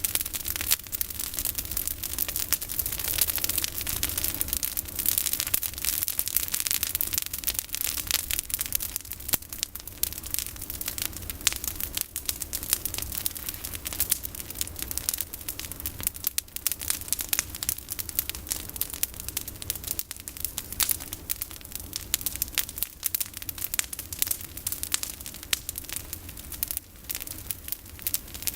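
Bonfire of pruned olive branches burning, with a dense stream of crackles and pops over a steady hiss.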